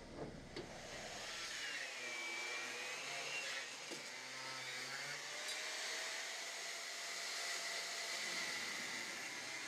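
Electric hand power tool motor running steadily with a hissing whine whose pitch dips and recovers a few times.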